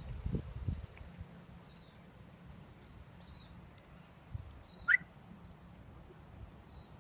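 Faint bird calls: short high falling chirps about every second and a half, with one louder call about five seconds in. A few low thumps in the first second.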